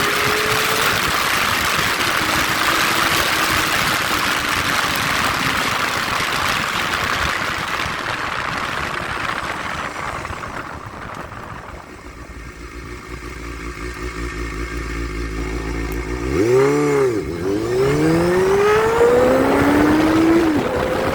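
Honda Hornet motorcycle engine running through twin aftermarket mufflers. It ticks over for most of the stretch, then is blipped on the throttle three or four times near the end, the revs rising and falling quickly each time.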